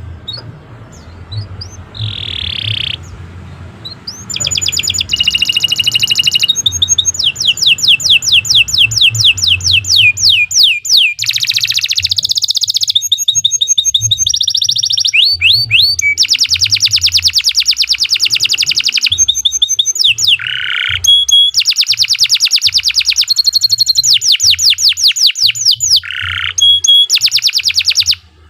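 Domestic canary singing a long, continuous song of rapid, high-pitched trills, each made of one note repeated many times a second. It switches to a new trill every second or two, after a softer start.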